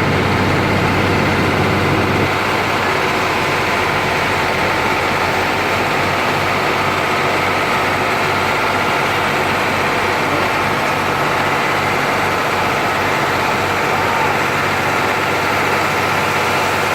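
Heavy road-building machine's engine running steadily at idle.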